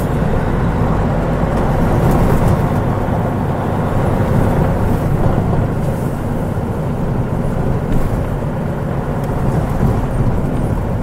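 Mitsubishi Fuso KL-MP37JK Aero Star city bus with its turbocharged 6M70 inline-six diesel, heard from inside the cabin while under way: a steady, deep engine and road rumble.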